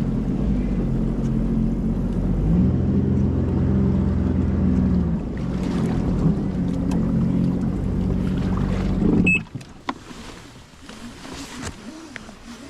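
Engine of a 2026 Sea-Doo Explorer Pro 170 personal watercraft, a Rotax three-cylinder just through its five-hour break-in, running at a steady pitch, then cutting off suddenly about nine seconds in. After that, only a faint background with a few scattered clicks.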